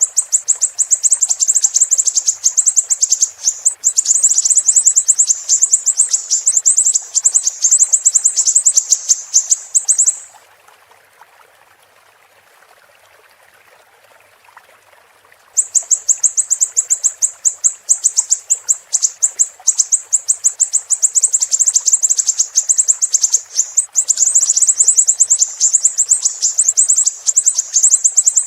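Siri-siri bird singing: long runs of very rapid, high-pitched chattering notes in quick phrases, which stop for about five seconds near the middle and then start again. A faint steady rush of running water lies underneath.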